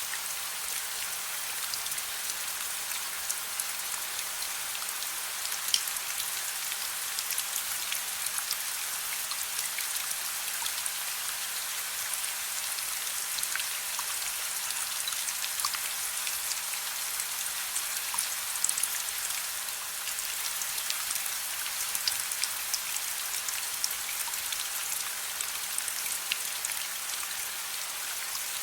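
Steady rain, with many small drops ticking sharply against a constant hiss.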